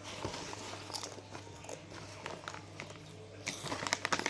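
Crunchy Chiki snacks being bitten and chewed: scattered crackly crunches, with a dense flurry of crunching near the end. A steady low hum sits underneath.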